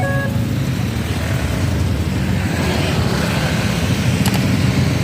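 Steady rumbling noise of vehicles passing at a railway level crossing, with a short sharp click about four seconds in. A short stretch of music cuts off just at the start.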